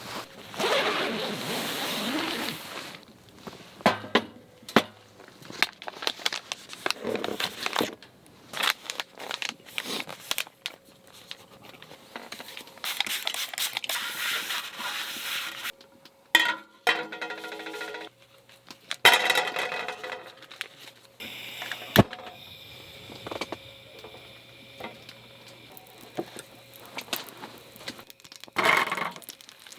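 Irregular handling sounds of camp cooking preparation: knocks and clicks of utensils and cookware, with rustling and scraping in between and one sharp knock about two-thirds of the way through.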